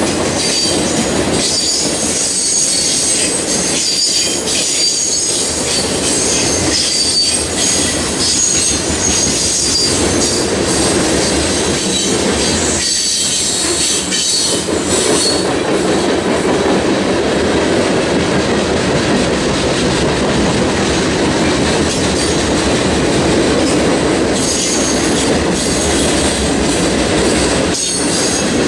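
Freight train of boxcars and covered hoppers rolling past close by, a steady rumble of wheels on rail with thin high-pitched wheel squeal over it. The squeal fades for several seconds past the middle and comes back near the end.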